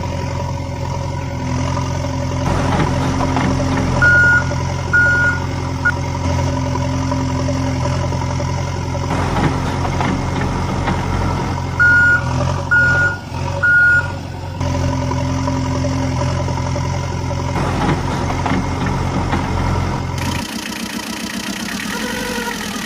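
A heavy vehicle's engine running steadily, with a reversing alarm beeping in two sets of three evenly spaced beeps. The engine tone shifts abruptly several times.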